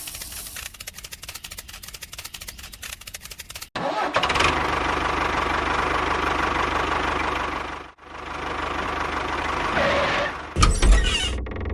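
A small machine's motor running: rapid fine ticking for the first few seconds, then a louder steady running noise that stops briefly near eight seconds and resumes, with a heavy low thump near the end.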